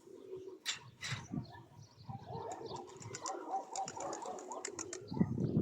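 Domestic pigeons cooing in repeated low, wavering calls. Near the end a rush of low noise comes up.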